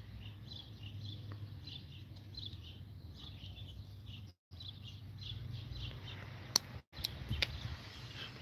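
Small birds chirping over and over in the background over a steady low hum, with a couple of sharp clicks in the second half. The sound cuts out briefly twice.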